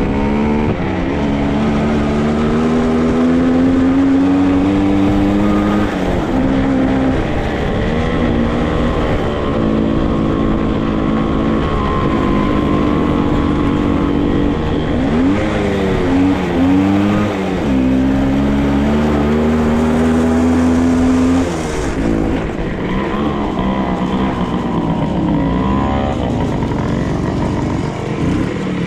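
Dirt bike engine running under way, its revs climbing and dropping again and again as the rider works the throttle and shifts gears, then easing off and running lighter over the last few seconds.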